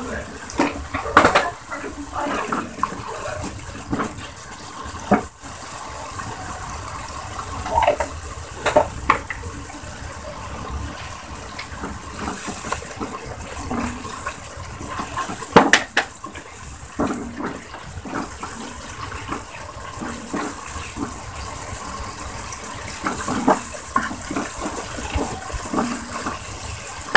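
Spice paste frying in oil in a marble-coated non-stick pan, sizzling and bubbling steadily while a silicone spatula stirs and scrapes it. A few sharp clicks and knocks come through, the loudest about a second in and again a little past the middle.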